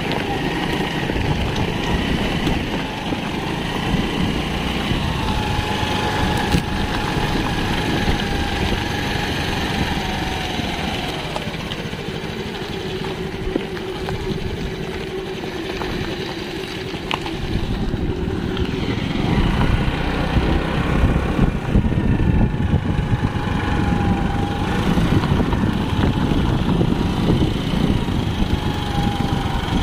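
A small vehicle engine, likely a two-wheeler's, running steadily with a low rumble, its pitch drifting slightly up and down.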